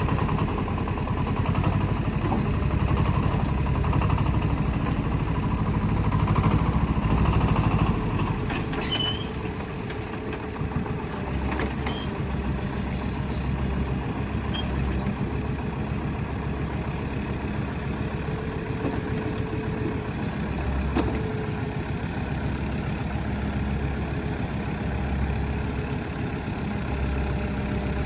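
A heavy construction machine's diesel engine runs steadily, louder for the first eight seconds or so and then settling lower. A few sharp metallic clinks come through about nine and twelve seconds in.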